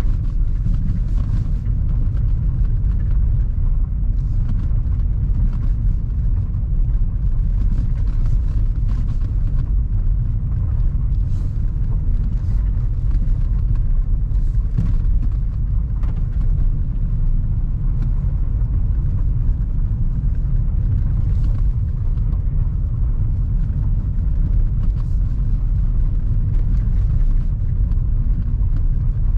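Car driving, heard as a steady low rumble of engine and road noise.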